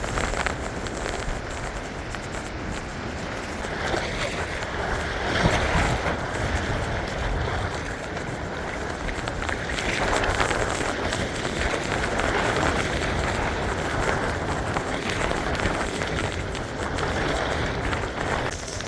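Blizzard wind blowing hard over a frozen lake, a steady rushing noise that swells and eases in gusts every few seconds, with a low rumble underneath.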